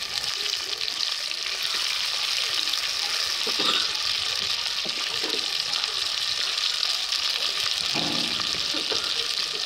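Marinated chicken pieces deep-frying in hot oil in a pot: a steady sizzling hiss.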